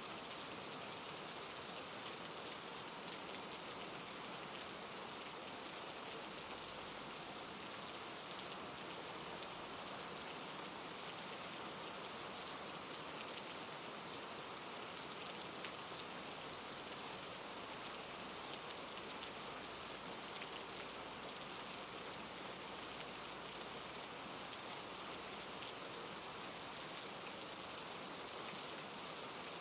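Steady soft rain falling, an even hiss of drops with occasional faint individual drop ticks.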